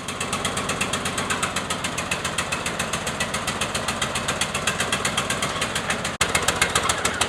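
Old lawn tractor's replacement Briggs & Stratton 21 horsepower engine running steadily with an even, rapid beat. It drops out for an instant about six seconds in, then carries on a little louder.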